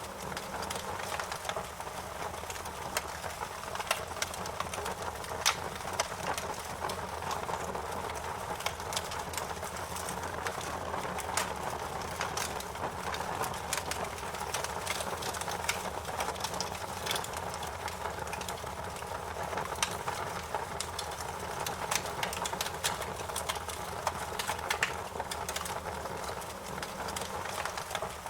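Campfire crackling: frequent sharp pops and snaps over a steady rushing noise of the flames.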